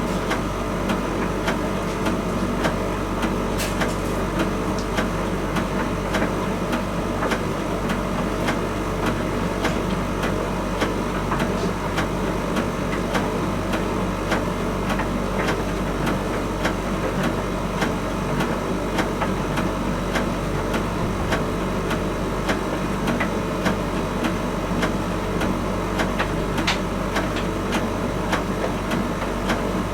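Miele T1 Ecospeed heat pump tumble dryer running: a steady machine hum with the drum turning, broken by frequent light clicks and taps.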